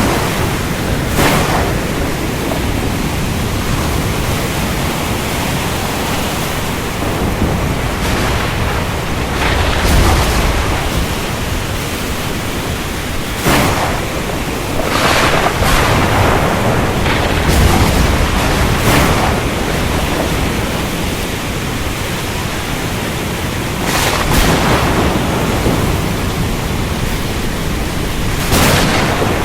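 Storm at sea: a steady roar of wind and surf, broken several times by sharp thunder cracks, with deep thunder rumbles about ten seconds in and again near the middle.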